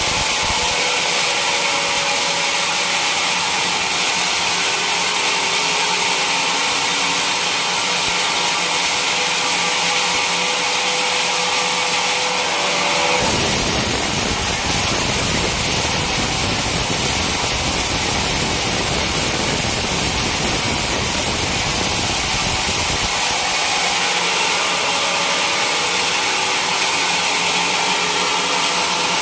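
Sawmill saw running and cutting a teak log, a steady loud machine noise that grows deeper and fuller for about ten seconds in the middle.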